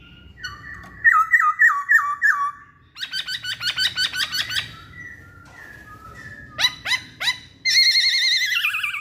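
Poksay Hongkong laughingthrush singing a loud, varied whistled song. It opens with a run of repeated whistles that drop and hook back up, and about three seconds in comes a fast trill. A few sharply rising notes follow, then a warbling phrase that falls in pitch near the end.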